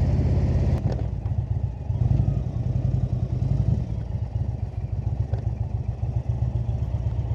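Indian cruiser motorcycle's air-cooled V-twin engine running under way, a steady low pulsing exhaust note that dips briefly about a second and a half in and then picks back up.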